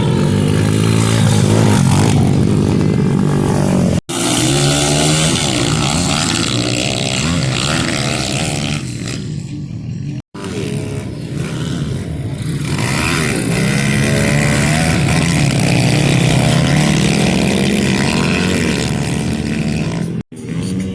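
Small four-stroke pit bike engines racing, revving hard with the pitch rising and falling again and again through the gears. The sound drops out abruptly three times for a moment.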